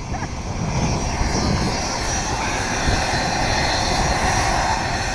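American Airlines jet airliner's engines running as it lines up for takeoff, a steady roar, with low irregular buffeting of jet blast and wind on the microphone that picks up about a second in.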